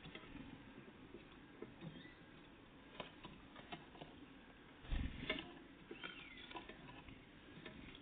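Great tits and blue tits feeding: scattered light taps and pecking clicks, one louder thump about five seconds in, and a short high call about six seconds in.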